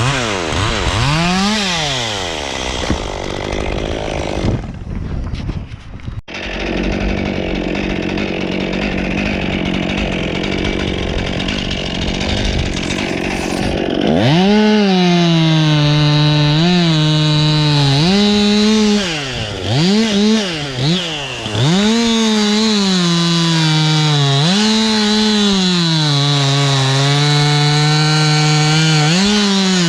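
Chainsaw running and cutting wood, its engine revving up and down. There is a short lull about five seconds in. From about halfway it is held at high revs, with repeated brief dips in pitch as the throttle eases and picks up again.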